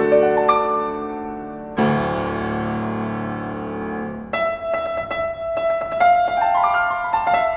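Piano playing: two held chords, then quicker repeated notes with a short rising run near the end.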